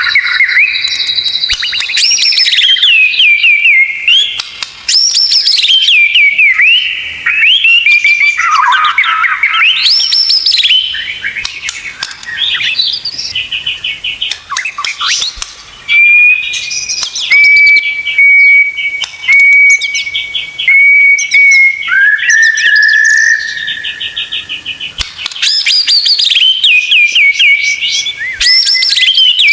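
White-rumped shama (murai batu) singing a long, varied song packed with fill-in phrases: fast rattling trills and rising and falling whistles, with a run of short, even whistles on one pitch about halfway through before a lower held note.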